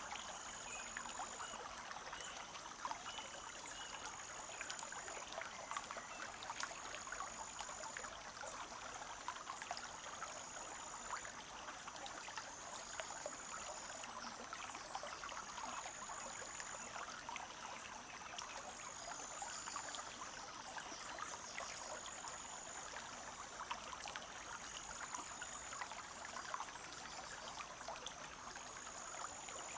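Forest stream trickling and babbling steadily, with many small splashes of water. Over it, a high, thin note about a second and a half long repeats every three seconds or so.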